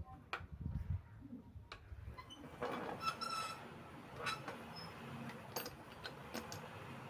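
Scattered light clinks and taps of tools and metal parts being handled during work on an old bicycle, with a few short high squeaky chirps.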